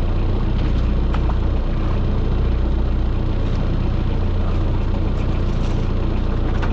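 Boat engine running steadily, with a few light clicks.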